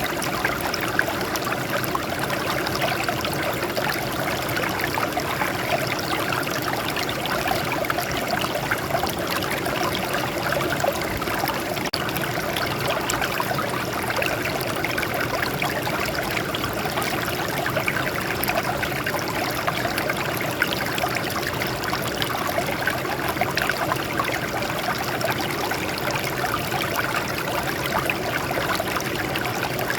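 Water flowing and trickling over rocks in a steady stream, with splashing.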